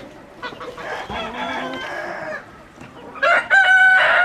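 A rooster crowing: a loud, long, held crow begins about three seconds in, after quieter chicken calls.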